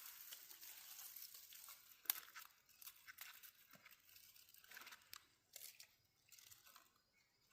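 Faint rustling and crackling of dry material, with scattered small cracks and a sharp snap about two seconds in.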